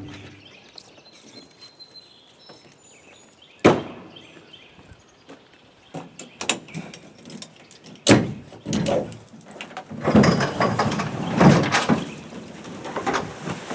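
A canoe being handled and pulled off its carrier: a sharp hollow knock, then several more knocks and a longer stretch of scraping and thudding near the end.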